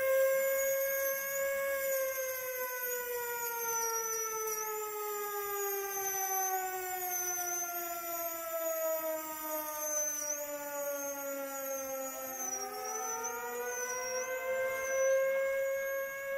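Air-raid siren wailing: one long tone that slowly falls in pitch, then a second wail rising again about twelve seconds in. A thin, high, wavering whine runs above it throughout.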